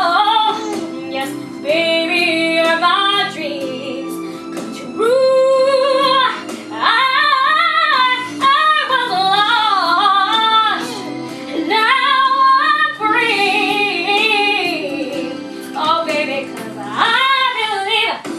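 A female voice singing a slow melody with vibrato over instrumental accompaniment.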